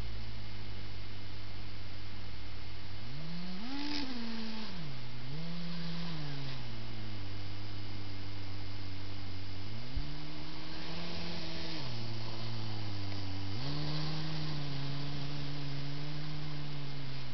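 Kyosho Blizzard RC snow groomer's electric drive motors whining, the pitch rising and falling as it speeds up and slows. It rises sharply about four seconds in and dips again, climbs near ten seconds in, then holds a higher pitch. A single short click about ten seconds in.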